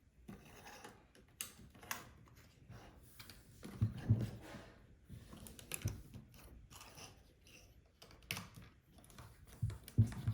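Small LEGO plastic pieces being handled, clicking and clattering irregularly as they are sorted and snapped together, with a few dull thumps on the work surface, loudest about four seconds in and near the end.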